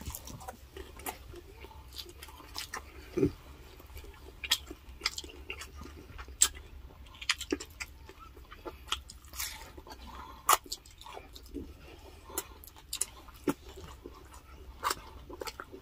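Close-miked chewing and mouth sounds of people eating a hand-eaten meal of grilled chicken, milkfish and rice: irregular short wet clicks of lips and teeth, with a brief low voice sound about three seconds in.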